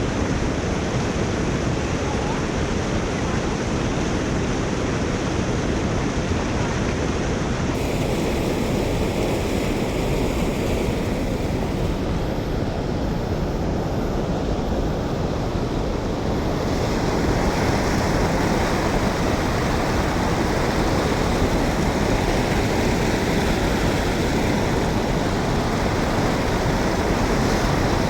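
Steady rush of water draining through a culvert, a little louder about two-thirds of the way through.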